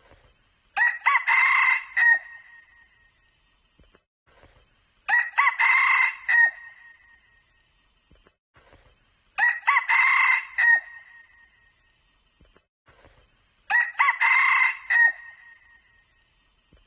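Red junglefowl rooster crowing four times, about four seconds apart, each crow a clear, ringing call of a little over a second.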